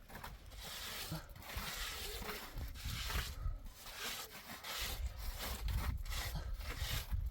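Repeated rubbing or rasping strokes, each a second or so long, with short pauses between them.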